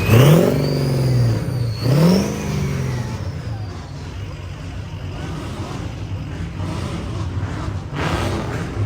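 A car engine revved in short blips, the pitch shooting up and falling away, once at the start and again about two seconds in, then settling to a steady lower background of engine noise.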